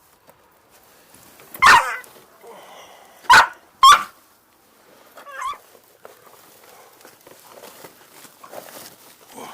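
A dog barking: three loud, sharp barks, the last two close together, then a softer, higher yelp a second or so later.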